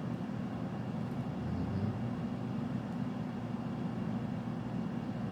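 Steady low hum of background noise with no distinct events.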